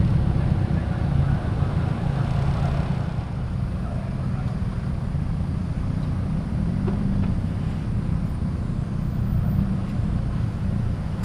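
Car engine running with a steady low rumble as a car rolls out, a little louder at the start.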